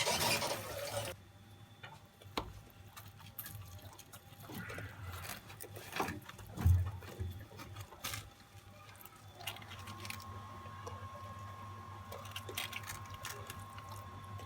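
Kitchen handling sounds: a hiss of noise that stops about a second in, then scattered light clicks and knocks with a dull thump about halfway through. A faint steady hum sets in about two thirds of the way through.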